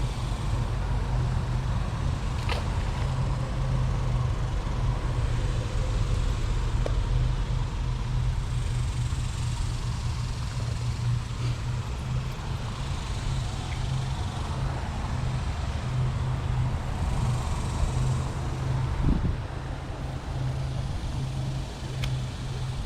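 Road traffic noise: a steady low rumble with a hiss that swells twice, about nine and seventeen seconds in, as vehicles pass.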